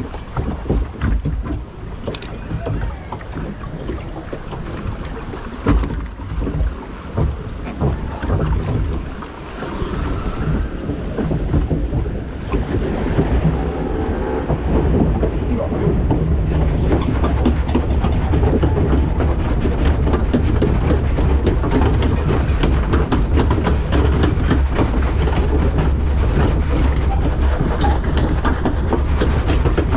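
Water-ride boat moving along its channel with rushing water and wind on the microphone. About twelve seconds in, a louder steady rumble with dense rapid rattling takes over and continues.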